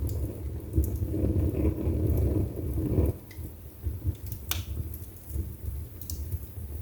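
Wood fire burning in a fireplace, crackling with scattered pops. A low rumble runs for about the first three seconds, then drops away suddenly. One sharp snap comes about four and a half seconds in.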